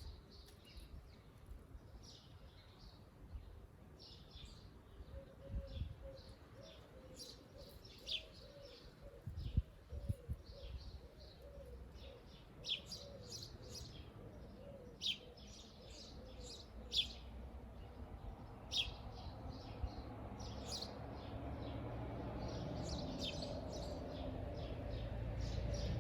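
Wild birds singing and chirping, with many short high calls scattered throughout. There is also a lower, wavering run of notes from about 5 to 14 seconds in. A low background noise grows steadily louder through the second half.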